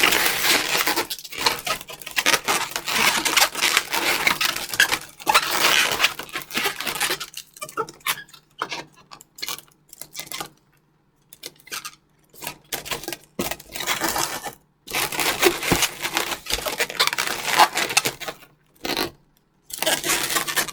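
Latex modelling balloons being handled and twisted together, rubbing against each other in spells of dense rustling with short pauses in between.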